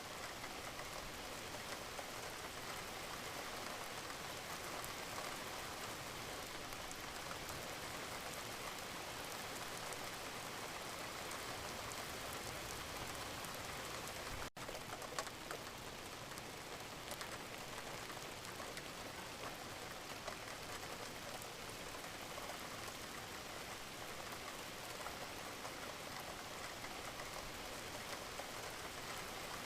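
Wood fire burning in a fireplace, with a steady, dense crackle and hiss. The sound drops out for an instant about halfway through, followed by a single louder pop.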